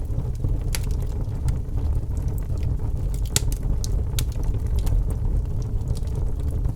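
Wood fire burning in a fireplace: a steady low rumble with scattered sharp crackles and pops, the loudest a little after three seconds in.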